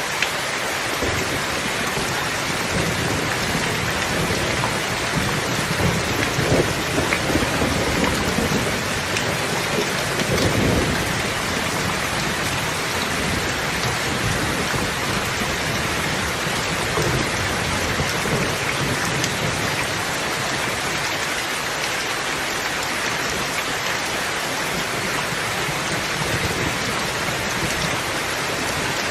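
Steady, heavy rain falling and pattering on surfaces, with a few louder low rumbles about a third of the way in.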